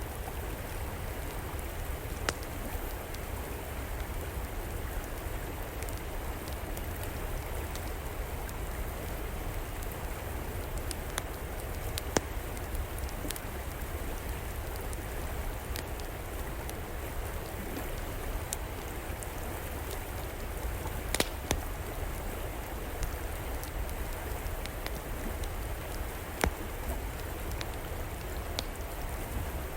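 Steady rush of flowing river water, with sparse sharp crackles and pops from a wood fire, a few louder pops standing out now and then.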